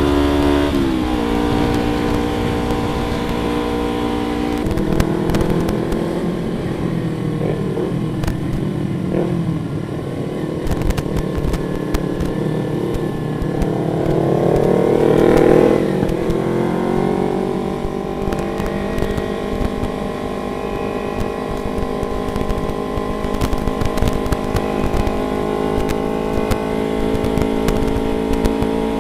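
Motorcycle engine running while riding, holding steady revs, dropping in pitch about a second in, then climbing in pitch for a couple of seconds around the middle as it accelerates and falling sharply, as with a gear change, before settling steady again.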